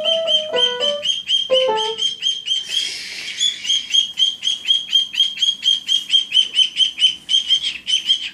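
Cockatiel calling in a fast, steady run of short, high chirps, about five a second, the repeated calling he directs at his reflection, which he takes for a mate. In the first two seconds a few lower musical notes step up and down beneath the chirps.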